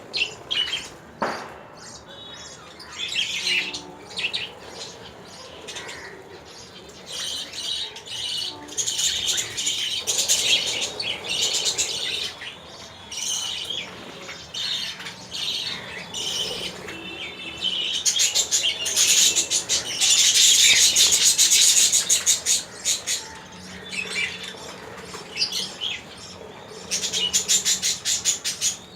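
Small birds chirping and twittering busily, in high, quick notes. They grow loudest in a dense run of rapid chatter about two-thirds of the way through.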